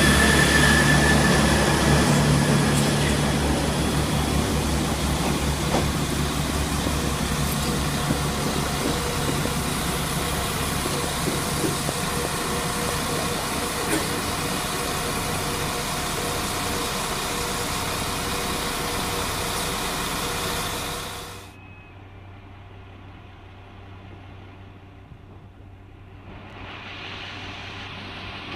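A train running past close alongside the platform, with a loud, steady engine rumble and the noise of wheels on the rails, which stops abruptly about three-quarters of the way through. After a quieter stretch, a diesel multiple unit's engine rises near the end as it approaches.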